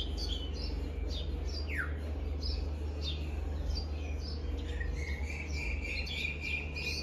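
Several small birds chirping and calling with many short, high chirps, one falling whistle about two seconds in, and a longer held call starting about five seconds in. A steady low rumble runs underneath.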